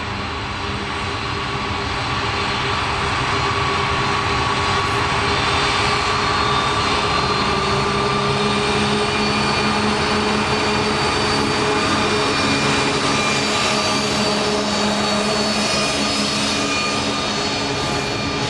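2TE116 diesel locomotive's diesel engines running steadily under power, a loud engine drone with several steady tones, growing a little louder over the first few seconds.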